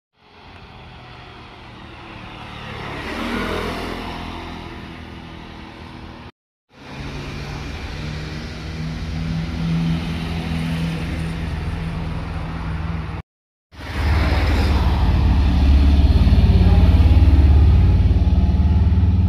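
Motorcycles riding past in three short clips cut together. In the first, an engine's pitch drops as the bike goes by; the last pass is the loudest.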